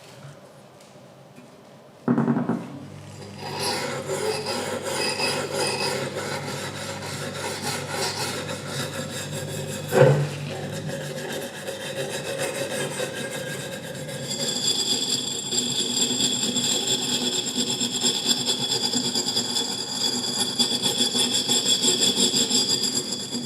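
Abrasive rasping and rubbing on a metal engine part, with a steady machine tone beneath. It starts suddenly about two seconds in, has one sharp knock near the middle, and takes on a higher, brighter steady ring for the last third.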